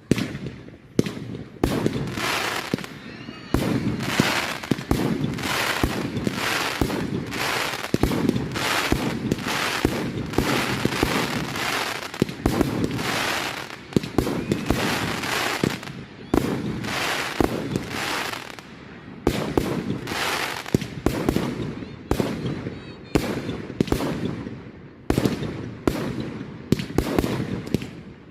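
Firework display: a rapid run of aerial shells bursting, bangs coming about one or two a second, each followed by a fizzing crackle.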